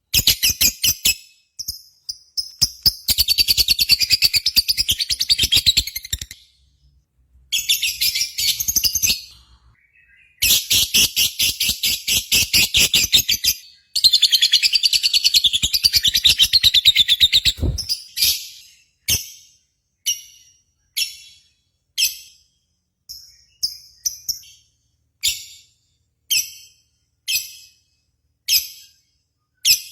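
Recorded bird song of long, rapid, high-pitched chirping trills in several bouts. Partway through, it changes to single short chirps about once a second.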